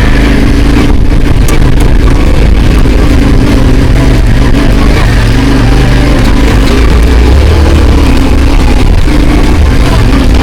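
Motorcycle engine running at low speed on a rough off-road track, its revs wavering a little as the rider works over the ground.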